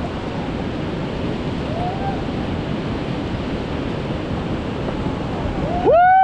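Steady rush of whitewater in a river rapid. Near the end a person's loud shout cuts in over it.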